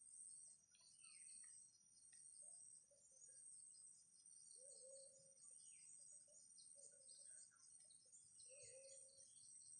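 Faint rural chorus: insects keep up a steady high drone and rapid pulsing chirps. Small birds give a few short falling chirps, and short low calls come about every second or two.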